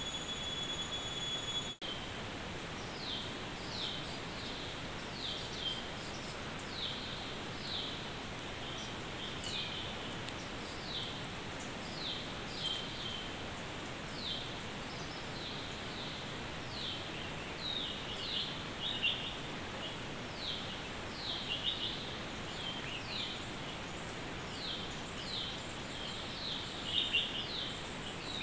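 A bird calling over and over in short, high, downward-sliding chirps, about one a second, over a steady hiss of forest ambience. A steady high tone sounds for the first couple of seconds, then cuts off.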